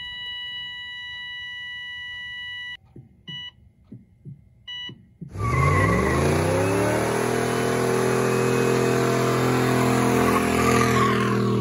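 A steady electronic beep that cuts off, then three short beeps, then a car engine revs up quickly and holds at high revs.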